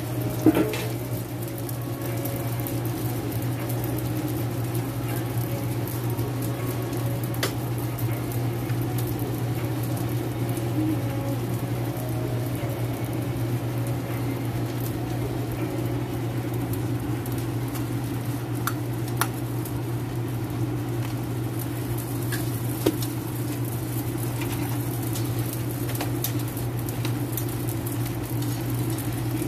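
Hotteok frying in oil on a flat steel griddle: a steady sizzle over a low hum, with a few sharp knocks of metal cooking tools, the loudest about half a second in.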